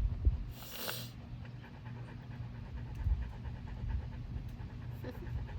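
A dog panting close by, with a short hiss about a second in and low rumbling bumps.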